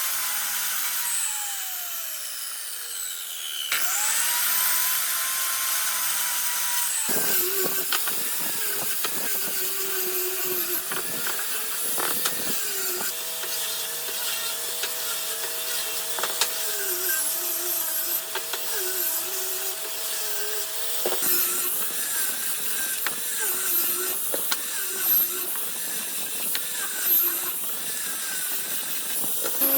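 Electric power tool working wood: its motor winds down near the start, spins up again and holds, then runs under load with its pitch wavering as it bites into the wood, with a second steady machine hum joining for several seconds midway.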